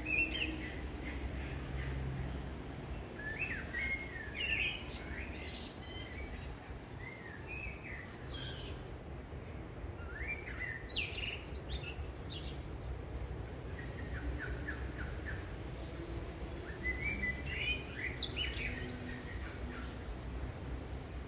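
Birds chirping and calling in short scattered phrases, with a quick run of repeated notes about two-thirds of the way through, over a steady low background noise.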